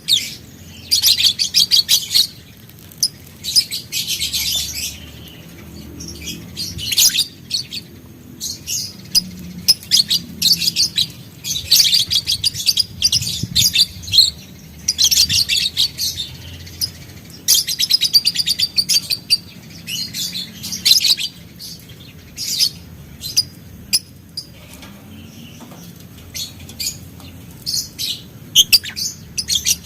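Lovebird (green biola colour) chattering in rapid, high trills, the long 'ngekek' song. It comes in bursts of one to two seconds with short pauses between them.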